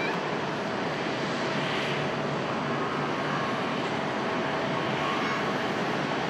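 Airbus A320-200 airliner's twin jet engines running at takeoff power: a steady rushing noise with a faint whine.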